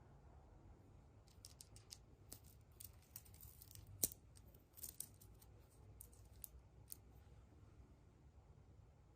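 Faint, scattered clicks and crinkles of hands handling surprise-egg packaging and small plastic pieces, with one sharper click about four seconds in.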